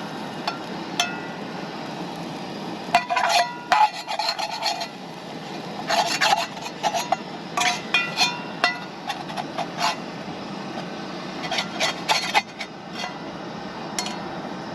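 Metal camp cookware being handled: scraping and rubbing with clinks, in several irregular bursts, over a steady background hiss.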